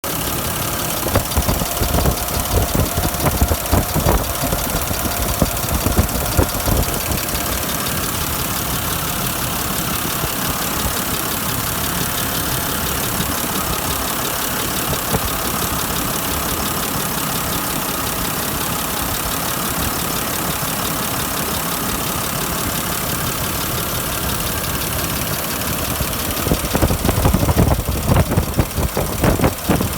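An engine running steadily at idle, with louder, uneven low pulsing for the first several seconds and again near the end.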